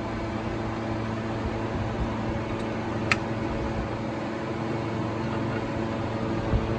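Toyota Premio's 1ZZ 1.8-litre four-cylinder petrol engine running steadily, with one sharp click about three seconds in.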